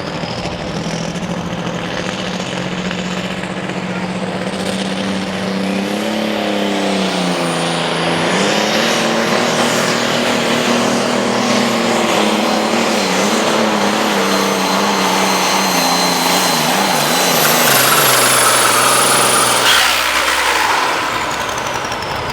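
Turbocharged diesel super stock pulling tractor under full load, its engine note wavering as it labours with a high turbo whine above it, getting louder toward the end. The engine tone drops away abruptly about twenty seconds in as the throttle is cut.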